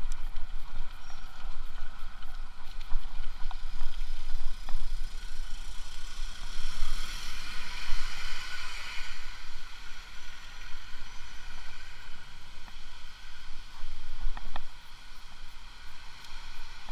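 A road vehicle passes: its noise rises to a peak about eight seconds in and then fades, over a steady low rumble.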